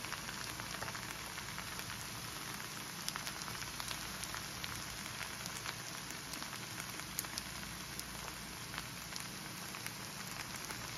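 Kimchi fried rice with two eggs frying in its centre, sizzling in a hot pan: a steady frying hiss with scattered small pops and crackles.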